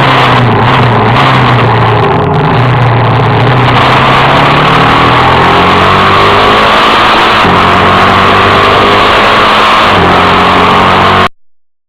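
Motorcycle engine running and accelerating, its pitch climbing through the middle of the stretch, picked up very loud by an action camera's built-in microphone. It cuts off suddenly about eleven seconds in.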